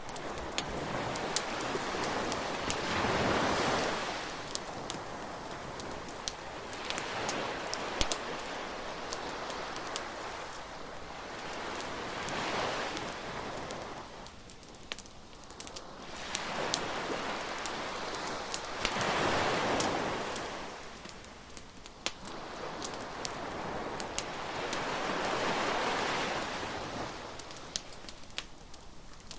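Surf breaking on a beach, swelling and fading about every five seconds, with scattered sharp crackles and pops from a bonfire.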